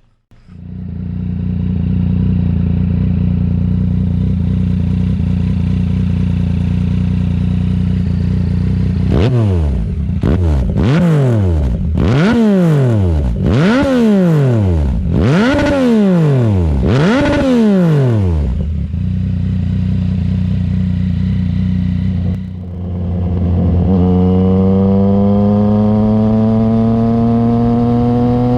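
2018 Yamaha MT-09's three-cylinder engine on an M4 RM1 full carbon exhaust with a VcycleNut tune, idling steadily, then revved about seven times in quick succession, each rev rising sharply and falling back. After a short idle the engine is held at raised revs, its pitch slowly climbing near the end.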